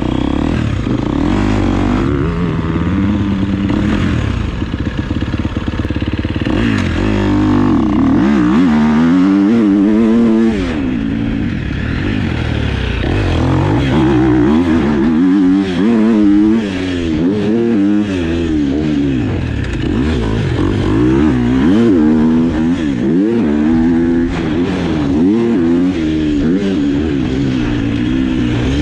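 450cc four-stroke dirt bike engine being ridden hard, revving up and dropping off again and again as the rider works the throttle and gears, with some clatter.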